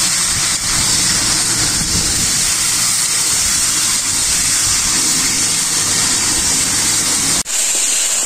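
Chicken pieces frying in a metal karahi as they are stirred with a spatula: a steady loud sizzling hiss with a low rumble underneath. About seven and a half seconds in, the sound cuts abruptly to heavy rain falling.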